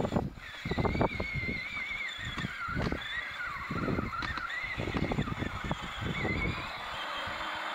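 Small electric motors and gearbox of a 12 V children's quad bike whining as it climbs a hill, the pitch wavering up and down for about three seconds and returning briefly near the end. Under it is a heavy, uneven rumble of wind and handling on the microphone.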